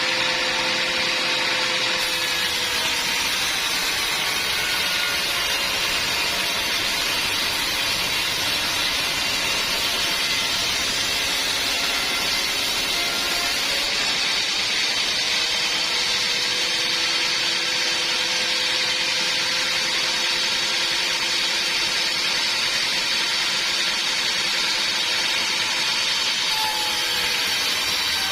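Sawmill machinery running: a loud, steady noise with faint humming tones underneath, changing slightly about 2 and 14 seconds in.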